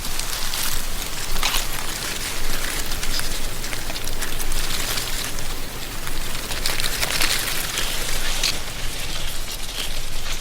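Wind blowing through a tree canopy, with dry autumn leaves rustling in a dense crackle over a low, steady wind rumble.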